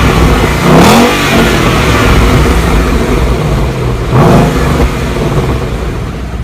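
A car engine revved hard twice, about a second in and again about four seconds in, with a rumbling run between the revs.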